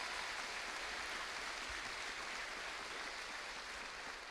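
Audience applauding: an even patter of clapping that tapers off slightly near the end.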